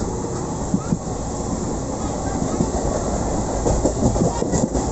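Train running on rails: a steady rumble with scattered short knocks, more of them near the end.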